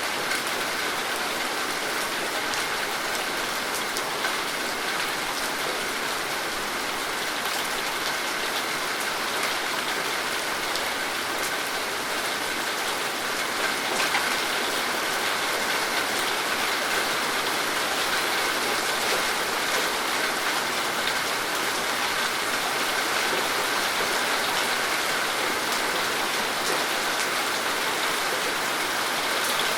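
Steady rainfall, with many fine drops pattering on surfaces in a constant hiss.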